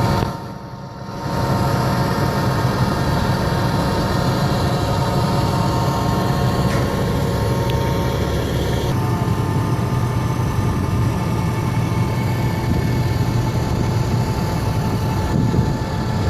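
Heavy diesel engine of a concrete pump truck running steadily under load. The sound drops briefly just after the start and shifts abruptly about nine seconds in.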